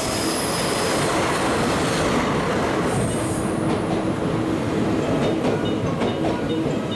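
JR DD51 diesel-hydraulic locomotive passing close, then 12 series passenger coaches rolling slowly past, with wheel squeal and clicks of wheels over rail joints.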